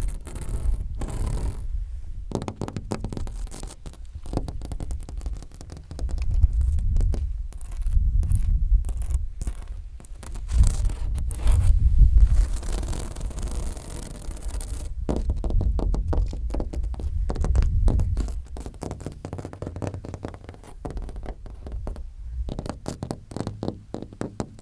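Close scratching and tapping right at a phone's microphone, many short clicks and scrapes, over a low, uneven rumble that swells and fades every few seconds.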